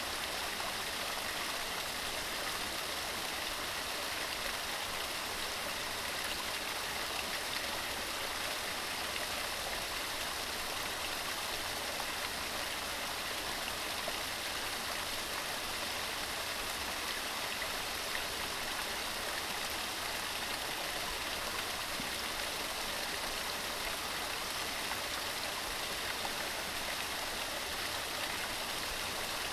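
Mountain stream running steadily over rocks, an even, unbroken rush of water.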